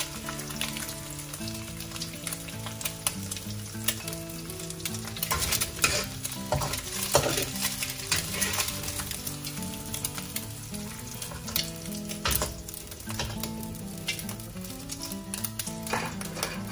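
Oil sizzling in a wok while a metal spatula scrapes and clinks against the pan, scooping out soft-scrambled egg. Quiet background music plays underneath.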